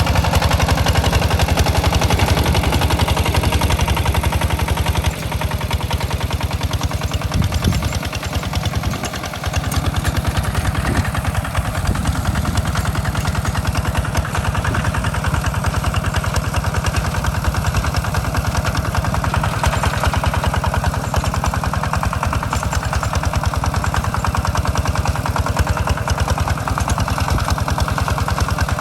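Walking tractor (power tiller) engine running steadily in fast, even beats, dipping briefly in level about five seconds in and again around eight to nine seconds.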